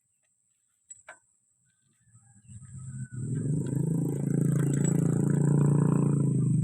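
A motor vehicle's engine running close by: it builds up over a couple of seconds, then holds a steady, loud note.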